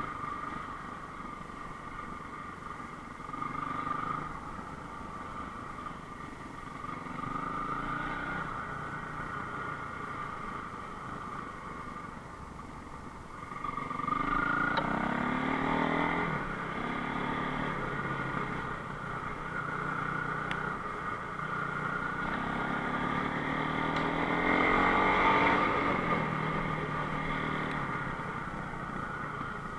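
Enduro motorcycle engine running and revving up and down as the rider changes throttle, loudest about halfway through and again near the end.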